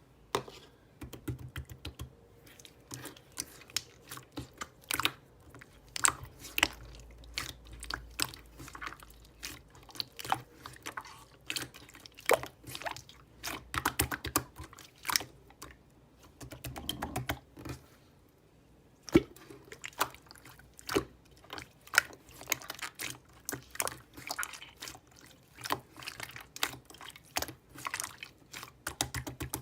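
Slime being squeezed and pressed by hand, giving a quick, irregular run of sticky clicks and wet pops, with a short pause about two-thirds of the way in.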